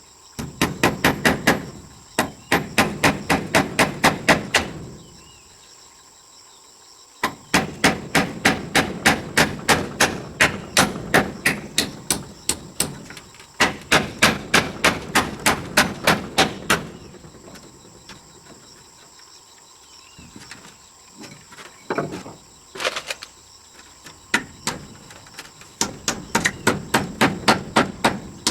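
Rapid hammering, about five blows a second, in runs of several seconds broken by short pauses, with a few scattered blows in the middle pause.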